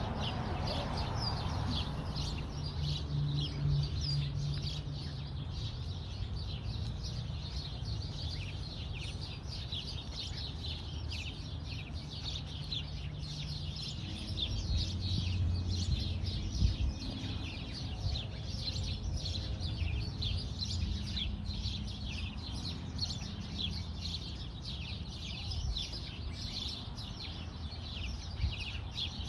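Many small birds chirping in a dense, continuous chatter, over a low steady hum.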